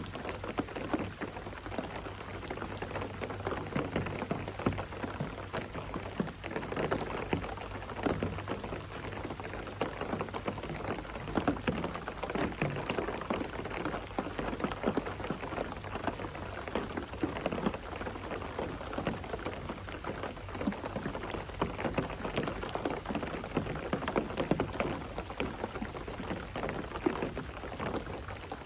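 Steady rain falling, heard as a dense, irregular spatter of individual drops.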